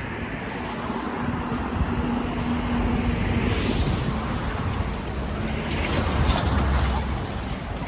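City street traffic passing, with a steady engine hum for the first few seconds and a deeper low rumble swelling near the end as a heavier vehicle goes by.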